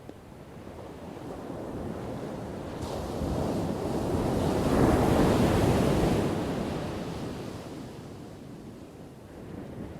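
Ocean surf: one wave builds, breaks and washes out, loudest about five seconds in, then ebbs back to a low rumble.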